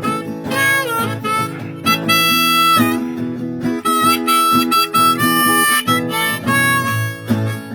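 Harmonica playing an instrumental break of held and bent notes over a strummed acoustic guitar.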